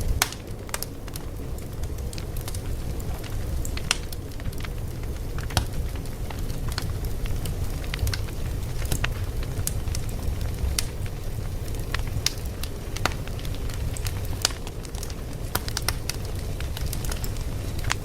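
Wood fire crackling: a steady low rumble of flames with sharp pops and snaps at irregular intervals, several of them louder than the rest.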